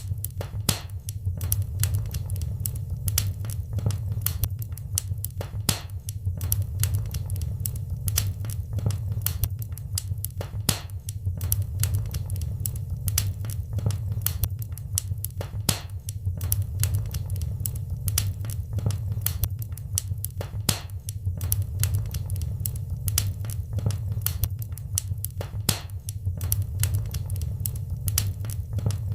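Wood fire burning in a fireplace: a steady low rumble of flame with many irregular sharp crackles and pops.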